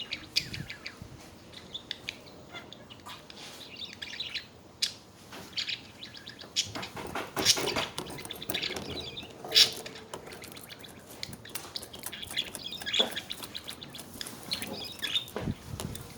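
Pet budgerigars chattering: a steady run of high chirps, warbles and short clicks, with a few louder sharp notes near the middle.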